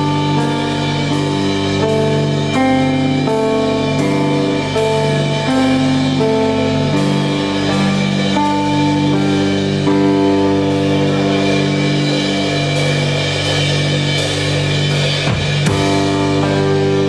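A live band playing: a drum kit keeps a steady beat under sustained pitched notes that change every second or so.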